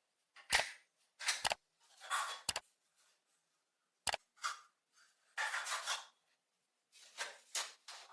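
Hand work on metal parts: a few sharp knocks and clinks mixed with short scraping strokes of about half a second each, with pauses between.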